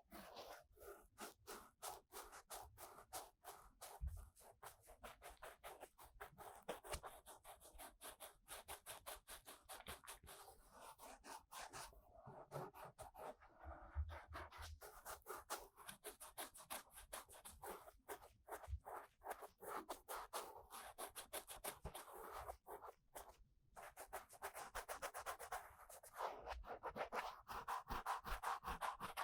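Ear-cleaning tool scratching and rubbing inside the silicone ear of a 3Dio binaural microphone, in quick, continuous strokes.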